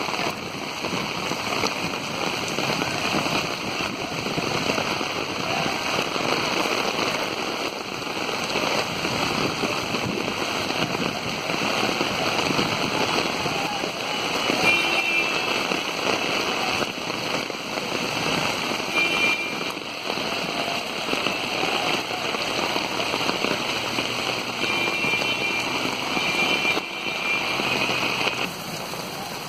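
Heavy monsoon rain pouring onto a flooded street, a steady dense hiss. A few short high tones break through near the middle and again later on.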